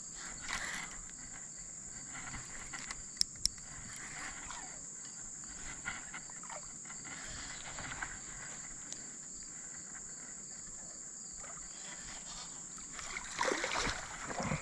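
Steady high-pitched drone of insects. Two sharp clicks come about three seconds in, and a burst of louder noise near the end.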